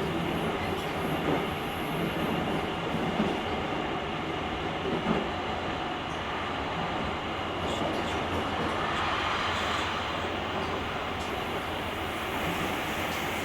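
JR Kyushu 883 series limited express train running at speed, heard from the vestibule: a steady rolling rumble with a few faint clicks of wheels over the rail joints.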